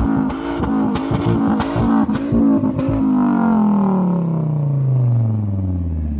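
Loud car exhaust held at steady high revs with rapid crackling pops for about three seconds, then the revs fall away smoothly in one long falling note as the engine drops back toward idle.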